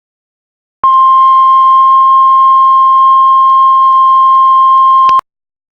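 Heart monitor flatline: one continuous steady beep tone, starting about a second in and lasting about four seconds before cutting off suddenly. It is the monitor's signal that no heartbeat is detected.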